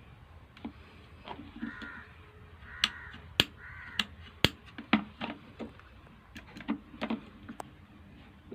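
Sharp clicks and taps of the plastic kettle switch housing being handled and pried apart. A crow caws three times in the first half.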